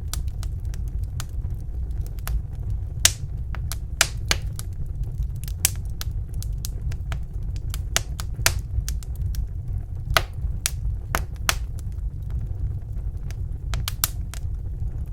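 Wood fire burning in a fireplace: irregular sharp crackles and pops, several close together at times, over a steady low rumble.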